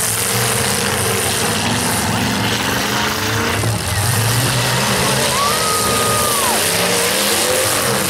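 Several demolition derby trucks' engines running and revving together, a dense, steady racket with the pitch wavering up and down. A single high held tone sounds for over a second about five seconds in.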